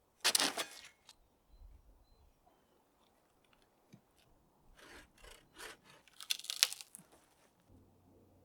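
Short bursts of scraping and rustling from wood and branches being worked: one near the start, a few quick strokes about five seconds in, and the loudest burst between six and seven seconds.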